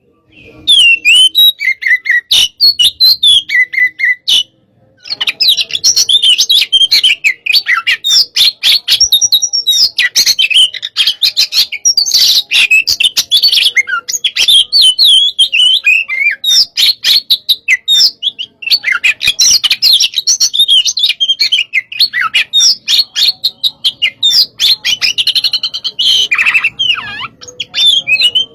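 Oriental magpie-robin (kacer) singing a loud, fast and varied song of rapid warbles, whistled phrases and sharp clicking notes, nearly non-stop with a brief pause about four seconds in. It is the agitated 'hot-type' singing that keepers play to provoke other kacer into song.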